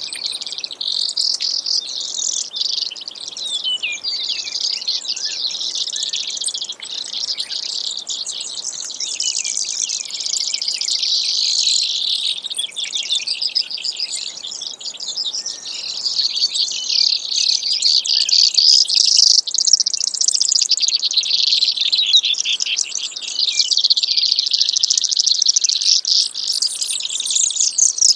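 Brewer's sparrow singing: a long, unbroken run of high, fast trills that keep changing in speed and pitch.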